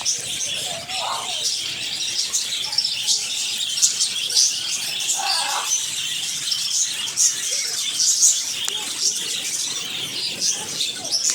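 A flock of budgerigars chattering: many high, overlapping chirps and warbles running on without a break.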